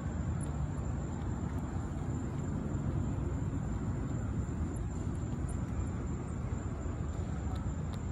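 Steady low outdoor rumble with a constant thin high-pitched whine over it.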